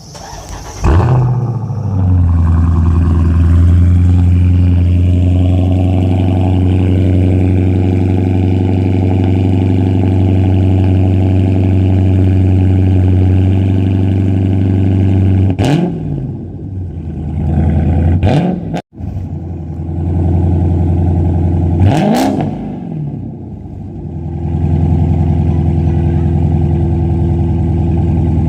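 Dodge Charger Scat Pack's 392 (6.4-litre) HEMI V8 through an MBRP Street cat-back exhaust, starting up about a second in and settling into a steady idle. It is then revved three times in quick throttle blips past the middle, and returns to idle near the end.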